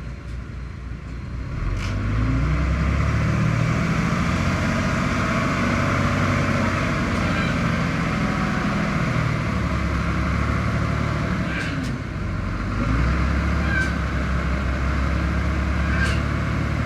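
Heavy diesel engine of an earthmoving machine working, rising in level about two seconds in and running hard. It eases briefly around twelve seconds, then picks up again.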